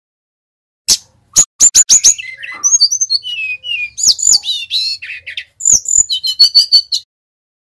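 Sikatan rimba dada coklat (SRDC Bali, a jungle flycatcher) singing: a loud, varied phrase of sharp clicking notes and high whistles that glide up and down, ending in a quick run of high notes. It starts about a second in and stops abruptly near the end.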